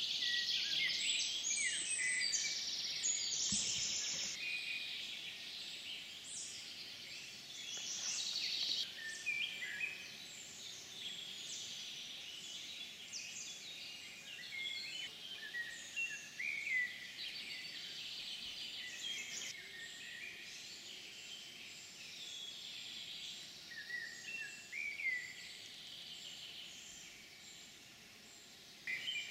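Several birds singing at once: many short, high chirps and whistled notes overlapping, busiest in the first several seconds and thinning out after.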